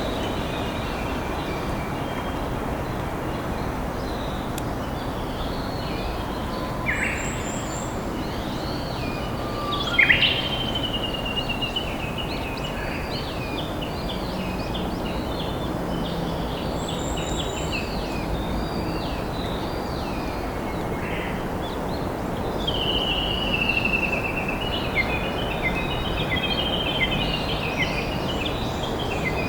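A river flowing steadily, with several wild birds singing over it: scattered chirps and warbled phrases, a loud call about ten seconds in, and a falling trill about two-thirds of the way through.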